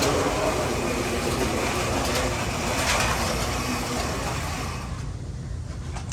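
Carrera 1/32 slot-car race trucks running laps on a plastic slot track: a steady whir of small electric motors with the rattle of guide and tyres on the track, thinning out a little near the end.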